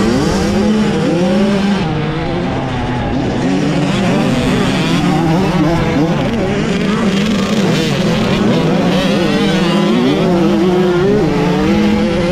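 Kawasaki KX100 two-stroke single-cylinder dirt bike engine under race riding, its pitch rising and falling repeatedly as the throttle is worked on and off.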